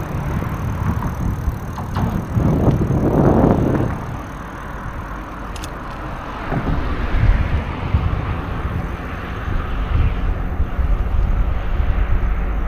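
Riding a bicycle, heard from the bike: a steady low rumble of wind on the microphone and rolling, surging louder during the first four seconds.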